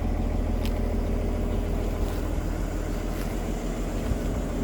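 Kobelco SK200-3 excavator's diesel engine running steadily, with a few faint clicks over it.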